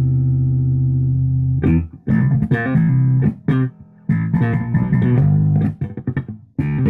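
Rivolta Mondata Deluxe electric bass played through a 1962 Fender Bassman amp stack. A long held note rings for about the first second and a half, then stops, and a run of short plucked notes follows with a couple of brief pauses.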